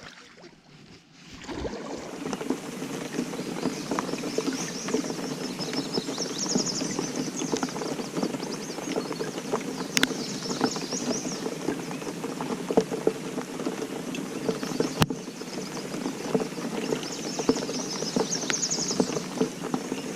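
Rain pattering on the river and the boat: a steady wash full of small ticks that starts about a second and a half in. Two sharp knocks sound part-way through, and a high chirping call comes twice.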